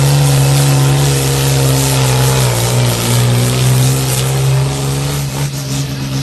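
Modified pulling tractor's engine running flat out under load as it drags the weight sled, loud and steady, its pitch sagging briefly about two and a half seconds in and easing off slightly near the end.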